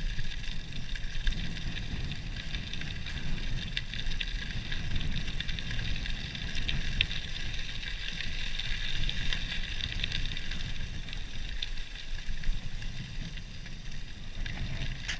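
Wind rumbling steadily on the microphone while riding, with the Cannondale Topstone 4 gravel bike's tyres crackling over a gravel trail.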